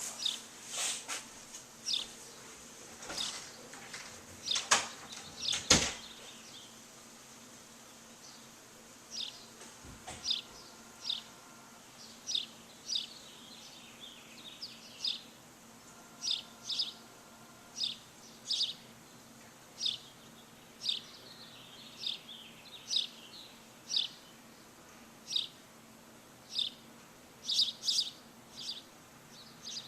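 Small songbirds giving short, sharp chirps, one after another at roughly one a second, over a faint steady hum. A few sharp clicks or knocks come in the first six seconds, the loudest about six seconds in.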